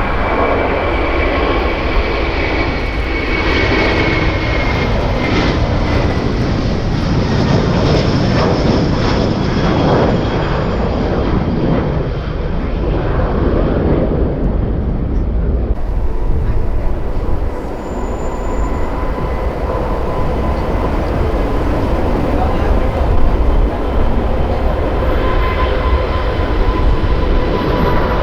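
Jet airliner engines running loud and close, a deep rumbling roar with a thin high turbine whine over it.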